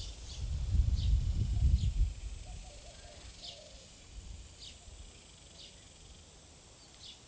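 A small bird gives short, sharp chirps about once a second, over a steady high-pitched hiss. A low rumble, the loudest sound, fills the first two seconds and then fades.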